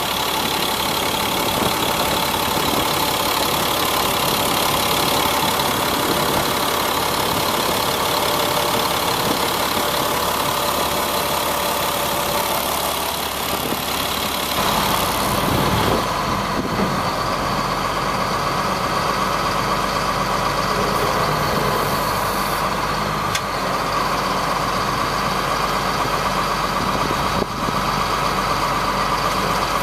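1999 GMC digger truck's engine idling steadily, its tone changing about halfway through.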